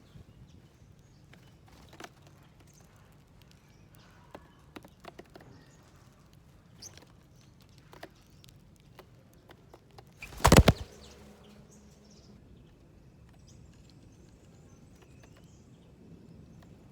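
Small wild birds at a seed feeding plate: scattered light taps of beaks pecking at the seeds, one loud brief burst of wingbeats about ten seconds in, and faint chirps near the end.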